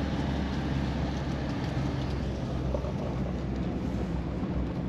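Steady low rumble of a Chevy Silverado 2500 pickup driving, engine and road noise heard from inside the cab.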